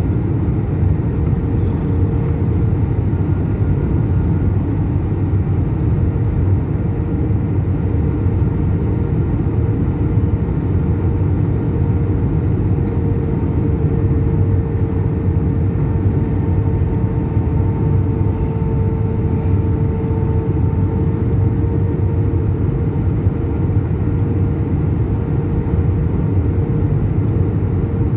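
Steady cabin noise aboard an Airbus A319: the jet engines and the airflow make a constant low rumble, with a steady droning tone over it.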